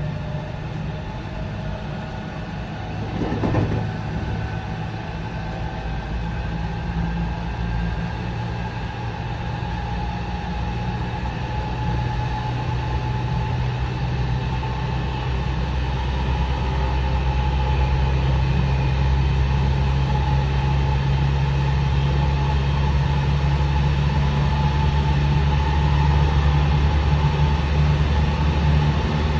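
Interior running sound of a JR West 207 series 0-subseries unrenovated electric train with a Mitsubishi power-transistor VVVF inverter: steady traction-motor hum and tones with wheel and rail noise, growing slowly louder. A brief knock about three and a half seconds in.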